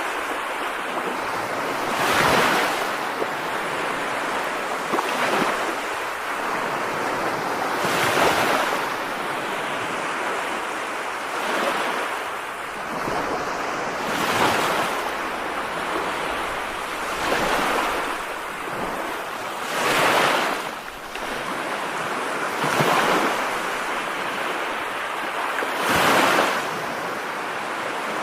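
Waves washing in and out, a steady rush with a surge about every three seconds.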